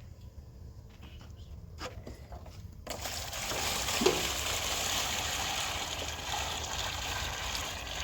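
Rushing water starts suddenly about three seconds in and then runs steadily.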